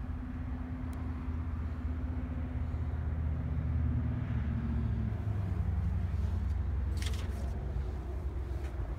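Steady low engine hum from a vehicle running, with its pitch stepping down a little about halfway through. A brief rustling noise comes about seven seconds in.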